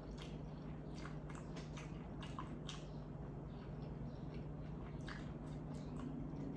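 Close-miked, soft wet chewing of cheesy chicken pasta: scattered small mouth clicks and squishes over a steady low hum.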